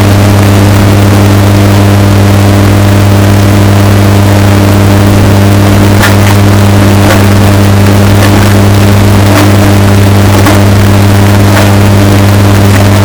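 Washing machine running steadily, bass-boosted and distorted into a loud, clipped, low hum. Faint knocks come about once a second in the second half.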